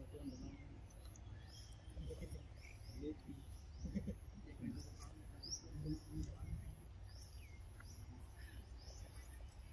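Birds chirping in the background, many short repeated chirps, over a steady low rumble.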